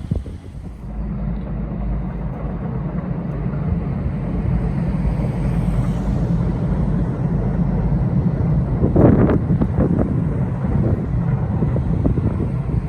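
Strong wind buffeting the microphone as a steady low rumble, with harder gusts about nine seconds in and again near the end.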